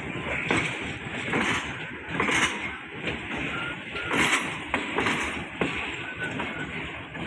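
Passenger train coaches rolling slowly past while gaining speed, the wheels clattering and knocking over the rail joints at uneven intervals above a steady rumble.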